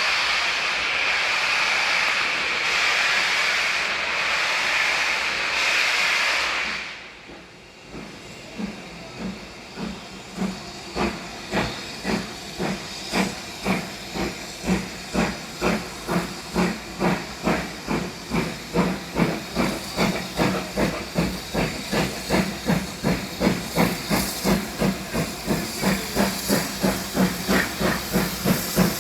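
Steam locomotive 70000 Britannia, a two-cylinder BR Standard Class 7 Pacific, starting away: a loud steady hiss of steam for the first several seconds that cuts off, then exhaust chuffs that begin slowly and quicken steadily as the engine gathers speed.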